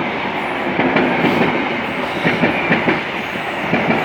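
LNER High Speed Train's Mark 3 coaches passing close by, steady rushing with wheels clattering rhythmically over the rails.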